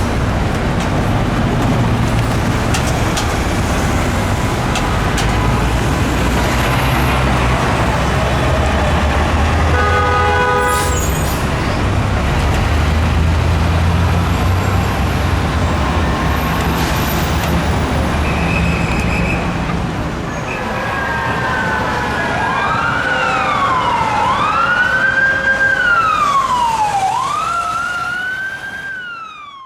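Street traffic, with a short horn blast about a third of the way in; in the last third an emergency vehicle's siren starts wailing, rising and falling about every two seconds.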